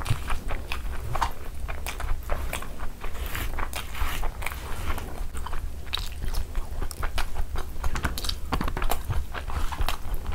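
Close-miked chewing and wet mouth smacks of a person eating a mouthful of curried rice, with many short clicks, and the squish of fingers mixing rice in gravy.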